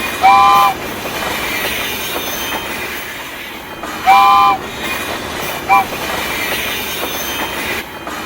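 Train horn sounding a three-note chord: a long blast at the start, another long blast about four seconds later and a short one near six seconds, over the steady rumble of a moving train.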